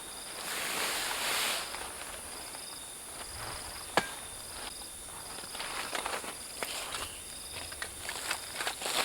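Forest insects chirping in short repeated trills over a steady high drone of other insects. Rustling comes and goes, and there is a sharp snap about four seconds in.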